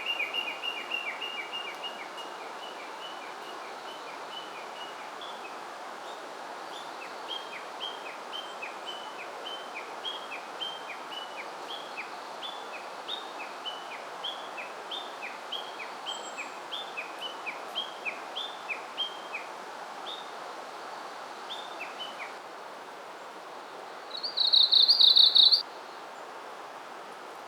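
Japanese leaf warbler singing: a long run of short, quick, down-slurred notes for most of the time, then a loud, buzzy rattling phrase a few seconds before the end. A steady rushing background noise sits under the song.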